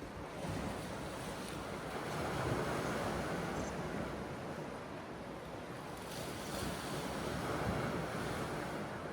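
Sea waves washing onto the shore, the surf swelling twice, with wind alongside.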